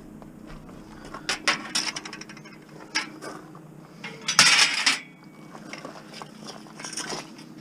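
Metal bed frames clanking and rattling as they are handled and stacked: several sharp metallic knocks, then a loud half-second clatter about four and a half seconds in, and a smaller clank near the end.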